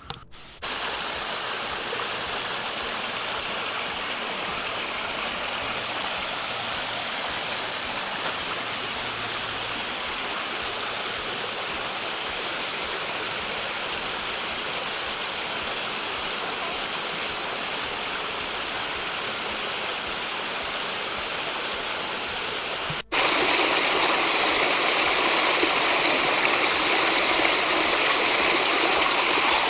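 Rushing water of a stream or small waterfall, a steady even rush. It cuts off briefly about 23 seconds in and comes back louder.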